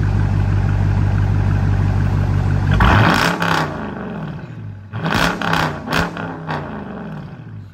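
Dodge Challenger R/T's 5.7-litre Hemi V8, straight-piped with its resonators removed, running steadily, then revved hard about three seconds in and blipped a few more times, each rev rising and falling back.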